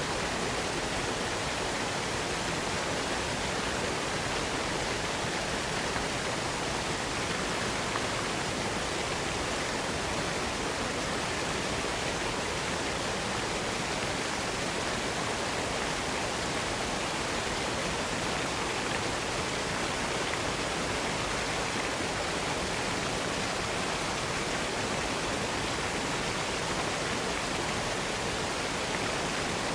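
Waterfall: falling water rushing in a steady, even roar that does not change.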